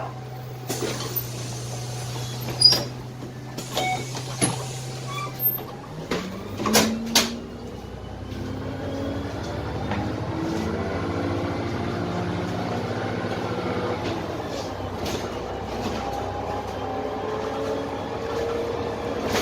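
Cummins ISMe diesel of a Dennis Trident double-decker bus, heard from inside the lower deck, idling steadily with a few sharp knocks and clicks. About six seconds in it revs up as the bus pulls away. The engine pitch climbs and drops back in steps as the Voith DIWA automatic gearbox shifts up.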